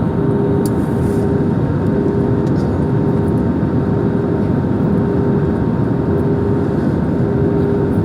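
Steady cabin noise inside an airliner on its landing descent: the engines and rushing air make an even roar, with a constant low hum running through it.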